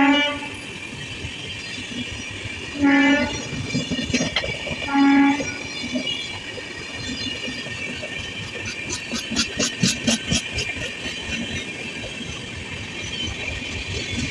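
Express train running through a station at speed. Its horn gives three short blasts in the first six seconds, then the coaches rumble past with wheels clicking over the rail joints.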